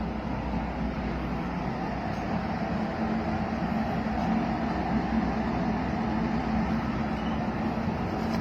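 A steady low hum with a constant droning tone, unchanging throughout.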